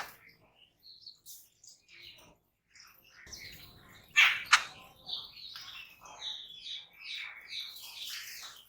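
A group of jungle babblers calling: harsh, squeaky chattering notes, with two loud sharp calls about four seconds in and a busier run of overlapping calls near the end.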